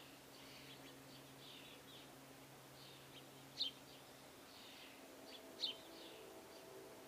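Small birds chirping and twittering at a feeder, with two sharper, louder chirps about three and a half and five and a half seconds in. A faint steady hum lies underneath.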